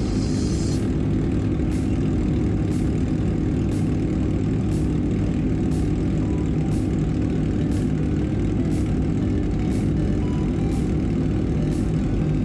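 Kawasaki ZX-25R's small inline-four engine idling steadily through an aftermarket racing exhaust, being warmed up after the bike stood in the rain overnight.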